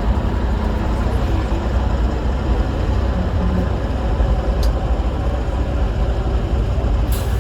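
Heavy off-road trial truck's engine running steadily, with a dense low rumble.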